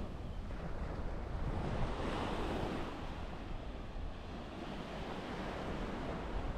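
Small waves breaking and washing up a sandy beach, one wash swelling about two seconds in, with wind rumbling on the microphone.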